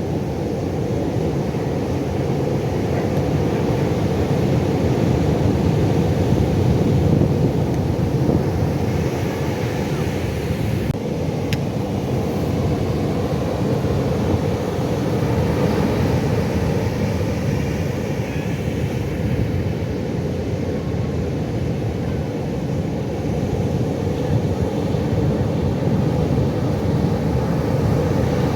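Pacific Ocean surf: a steady low rush of breaking waves that swells and eases slowly every several seconds.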